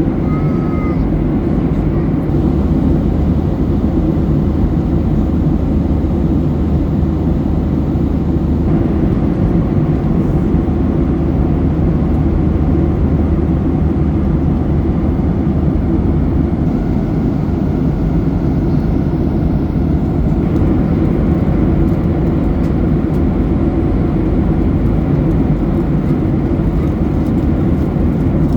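Steady cabin drone of a Boeing 737-800 in cruise: the CFM56-7B engines and the airflow over the fuselage, heard from inside the passenger cabin as a deep, even rumble.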